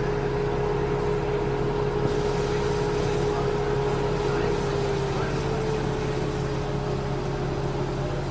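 Steady drone of running high-pressure washer machinery: a constant low hum with a higher tone that sags slightly in pitch about five seconds in, over an even hiss.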